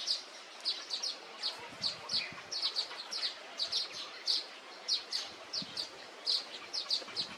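Small songbird chirping over and over: short, high, downward-sliding chirps, about three a second.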